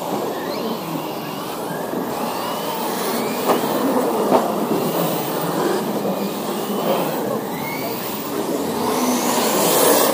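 Several electric RC monster trucks racing: their motors whine up and down in pitch as they speed up and slow down, over a steady rush of drivetrain noise. There are two short knocks near the middle.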